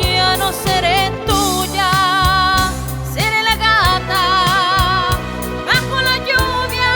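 Instrumental break of a live band playing a ballad: a lead melody with wide vibrato carries the tune over bass and a regular drum beat.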